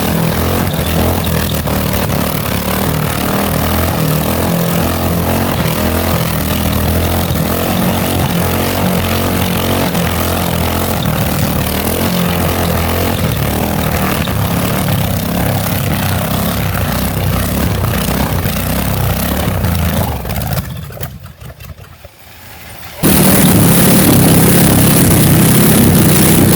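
Chevy 350 small-block V8 running hard at high revs in a run-to-failure test. About 20 seconds in it dies away over a couple of seconds. Near the end a loud, brighter engine-like noise cuts in abruptly.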